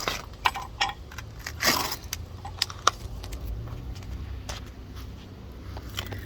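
Steel rock hammer tapping along a large geode to split it: sharp, irregular clinks of metal on stone, unevenly spaced, with one longer, louder stroke about two seconds in.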